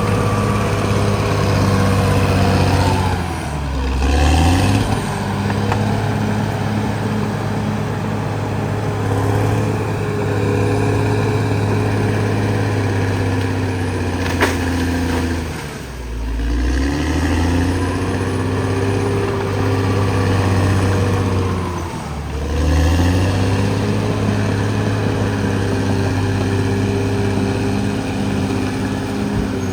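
Caterpillar D6R XL bulldozer's diesel engine running steadily under work, its speed sagging and picking back up three times, about 4, 16 and 22 seconds in. A single sharp click sounds about halfway through.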